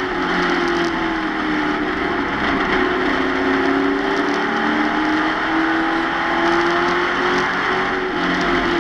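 Stock car race truck's engine heard from inside the cockpit while it laps, its pitch slowly falling and climbing as it goes through the turns, over loud wind and road noise.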